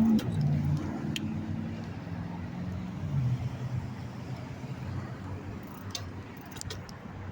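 Road traffic: motor vehicles passing with a steady low engine hum that fades after the first few seconds, and a few short clicks near the end.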